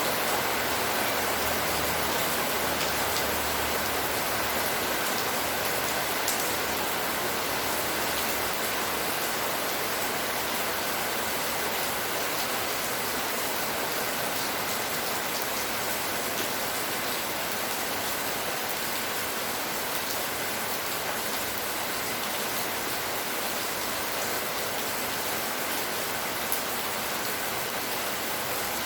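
Steady rainfall, a dense, even hiss of rain falling on surfaces, with a few faint drop ticks.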